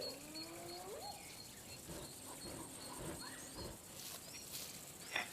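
A faint animal call rising in pitch, ending about a second in, over small high chirps repeating and scattered rustles.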